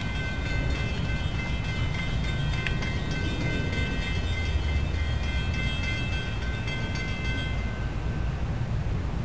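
SEPTA electric multiple-unit commuter train approaching, a steady low rumble. A set of steady high tones sounds over it and stops about eight seconds in.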